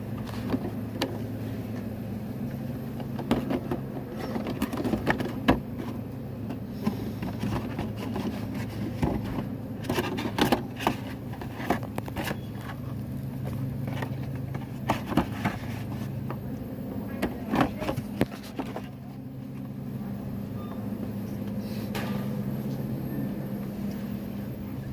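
A steady low background hum with scattered sharp clicks and short rustles, as of things being handled.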